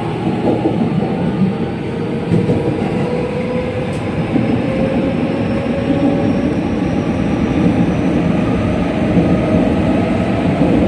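JR West 207 series electric train running on the track, with a steady rumble of wheels and rail. Over it, a motor whine rises slowly in pitch as the train gathers speed; the set still carries its original traction motors.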